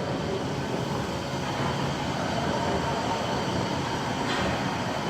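Steady mechanical rumble with a low hum, with no distinct events.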